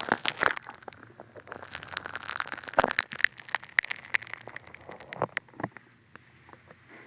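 Funny Foam squished and worked right against a dummy head's ear microphone: dense wet crackling with sharp clicks and pops, thinning to a faint crackle near the end.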